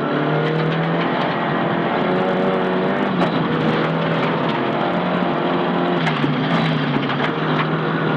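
Nissan Silvia S15 rally car's engine running hard under load at fairly steady revs, with small dips and steps in pitch, and scattered sharp ticks over it.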